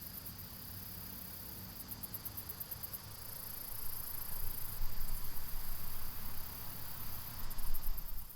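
Outdoor ambience by a slow stream: an even hiss, with insects trilling high in pulses twice, and an uneven low rumble that grows louder from about halfway through.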